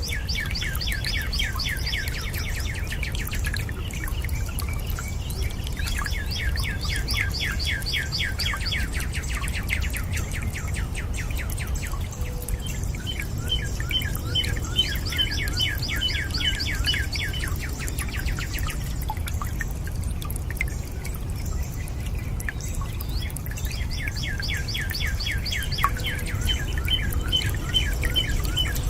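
Songbirds singing phrases of fast, trilled notes, each phrase a few seconds long and repeated four times, over a steady low rush of running water.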